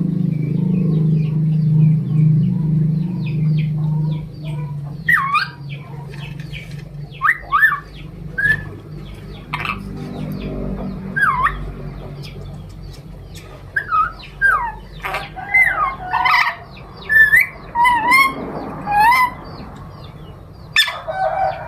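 A pet bird giving many short whistled chirps and calls with quick rising and falling pitch, some in quick pairs and clusters. A low steady hum fills the first few seconds.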